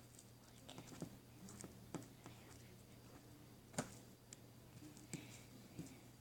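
Faint, irregular small clicks and pops of slime being handled and squeezed by hand, with one louder click nearly four seconds in.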